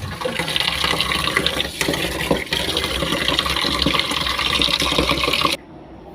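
Water running steadily from a tap into a sink or basin, with small clicks and knocks in the stream. It cuts off suddenly near the end.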